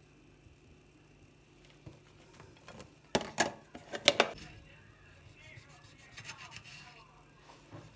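Household handling sounds: a few sharp knocks and clicks about three seconds in, followed by quieter scraping and rubbing.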